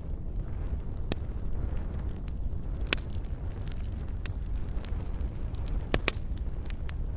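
Wood fire in a fireplace crackling over a steady low rumble of flames, with scattered sharp pops; the loudest come about three seconds in and twice in quick succession near six seconds.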